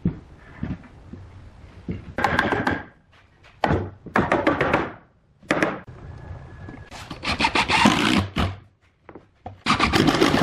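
Hand tool working wood: about five bursts of rough rasping strokes, each up to about a second and a half long, with short pauses between them.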